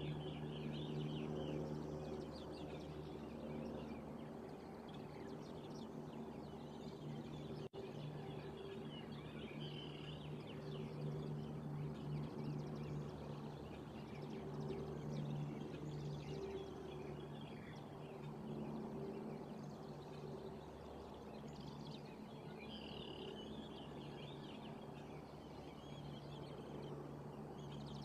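Small birds chirping in scattered bursts, over a steady low hum.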